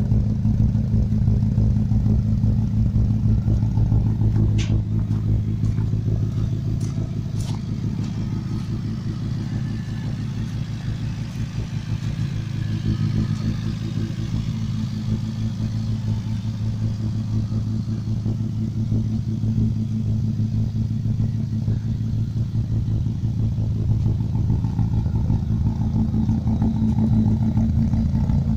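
Classic Austin Mini's A-series four-cylinder engine idling steadily through a Maniflow exhaust with a straight-through pipe, giving an even, deep exhaust note.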